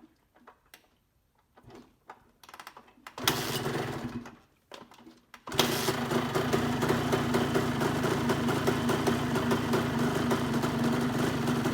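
Honda CR125's single-cylinder two-stroke engine on a cold start in about 10 °F weather: after a few clicks it runs briefly for about two seconds and cuts out, then fires again about halfway through and keeps running steadily.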